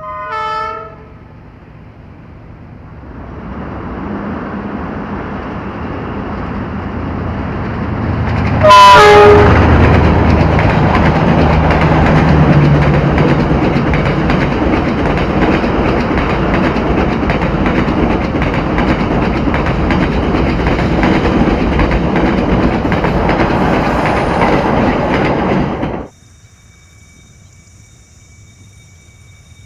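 Diesel train's horn sounds briefly at the start, then the train approaches with rising rumble and gives a loud horn blast about nine seconds in as it passes close by. The loud running noise of the passing train goes on and then cuts off suddenly near the end, leaving only faint steady background sound.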